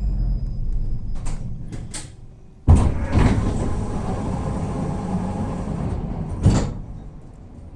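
Tram doors opening at a stop: a couple of light clicks, then a sudden thump about three seconds in as the door mechanism runs, ending in a second knock near the end.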